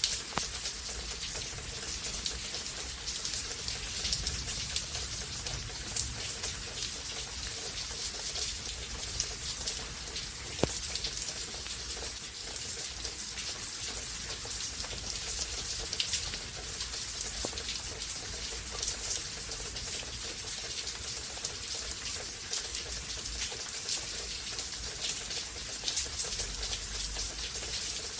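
Rain falling steadily in a storm: a dense, even hiss with many individual drops ticking, and one sharper drop or tap about ten seconds in.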